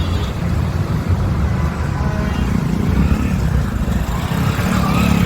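Steady low rumble of heavy highway traffic passing close by.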